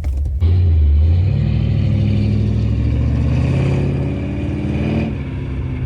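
1972 Plymouth Scamp's bored 318 V8 with an aggressive cam and a Holley four-barrel, running just after starting. It is blipped about half a second in, held at raised revs, and drops back toward idle near the end.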